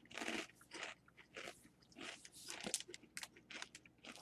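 Crunchy corn-stick snacks being bitten and chewed, irregular crunches close to the microphone.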